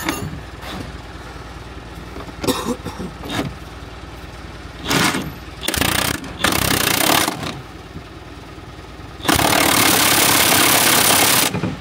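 Pneumatic impact wrench run in three short bursts and then one steady run of about two seconds, tightening a nut on a Fiat Doblo's rear leaf spring while a spanner holds the other side.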